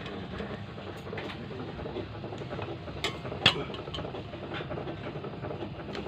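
Scattered clicks and knocks of tools and plastic panels being handled while a twin-tub washing machine is taken apart, with one sharp knock about three and a half seconds in.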